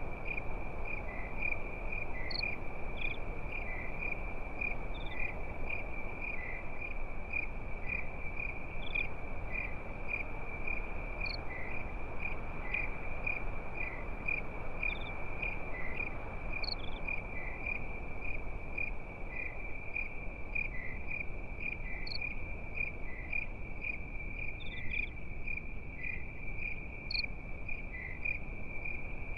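Crickets chirping in a steady, evenly pulsed trill over a low, even hiss of a campfire, with a few sharp pops now and then.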